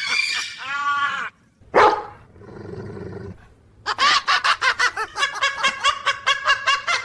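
Animal calls in the first second or so, then a sudden loud hit. About four seconds in, a quick, evenly pulsing music track starts.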